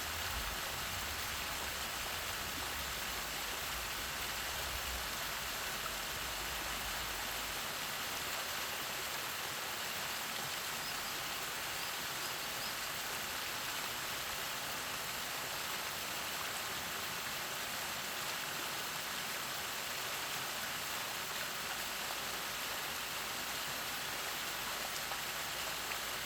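Artificial waterfall: water falling and splashing into a pool in a steady, unbroken rush.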